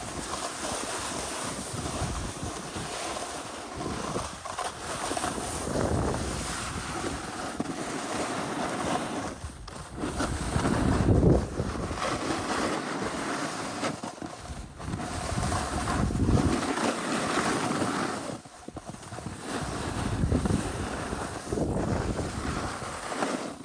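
Wind buffeting the microphone, a rushing noise that swells in gusts every few seconds.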